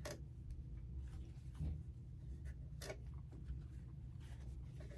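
Light handling sounds: a few soft clicks and rustles over a steady low hum.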